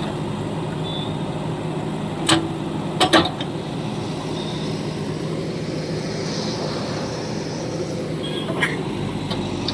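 Backhoe loader's diesel engine running steadily with a low hum. Sharp knocks sound about two seconds in, then a double knock a second later, and another near the end.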